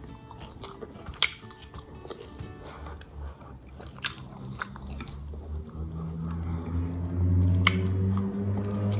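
Close-miked chewing and biting of chow mein noodles, with a few sharp clicks. Background music grows louder in the second half.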